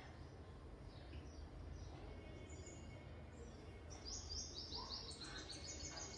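Faint background with a low steady hum, and a bird chirping a rapid run of short high notes from about four seconds in.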